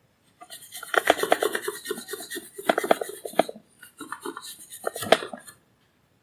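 Irregular scraping and rubbing with many small sharp clicks, for about five seconds.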